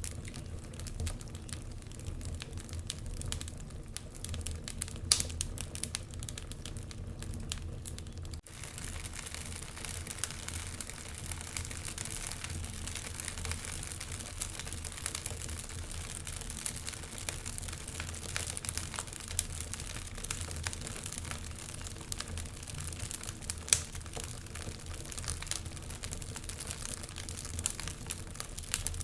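Wood fire crackling in a fireplace: a steady run of small snaps and ticks over a low rumble, with two sharper pops, about five seconds in and again a little past three-quarters through.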